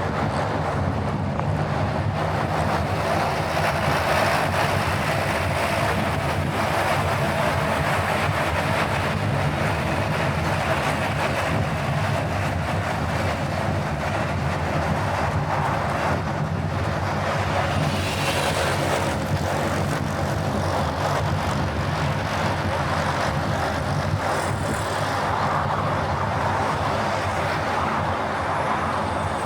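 A car driving at a steady pace: a constant low engine hum with road and wind noise that barely changes.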